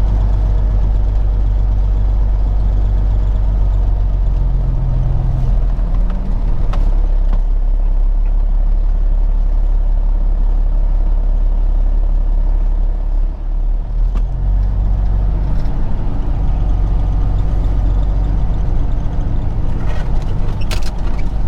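Peterbilt 379 truck's diesel engine running steadily under way, a low drone whose note shifts and briefly drops about 13 seconds in. A few sharp clicks come near the end.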